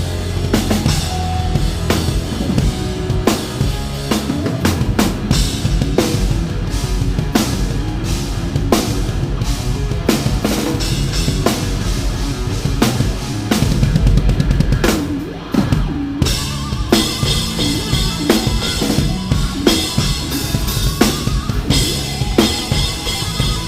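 Rock band playing live, with the drum kit loud in the mix: kick drum, snare hits and cymbals over the rest of the band. About fifteen seconds in the music dips briefly, then comes back with steadier crashing cymbals.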